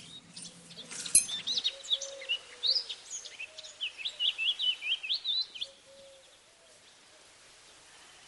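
A small songbird chirping in quick, gliding notes for a few seconds, after a single sharp click about a second in.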